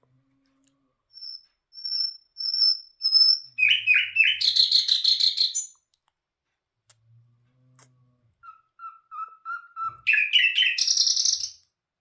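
Bulbul hazar dastan songbird singing two phrases. Each starts with a run of short, spaced whistled notes and breaks into a loud, fast run of notes: the first about four seconds in, the second near the end.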